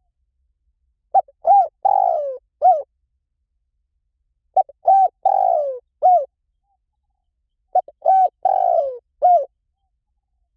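Spotted dove cooing: three repeated phrases about three seconds apart. Each phrase is a short note, two quick coos, a longer coo that falls in pitch, and a final coo.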